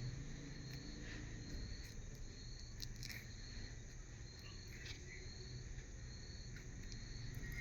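Steady chirping like an insect's: short high chirps about two a second, with scattered light clicks over a low steady hum.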